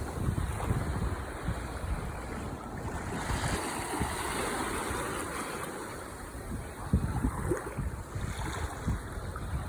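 Ocean waves washing on the shore in a steady, rolling surf, with low rumbling gusts of wind buffeting the microphone.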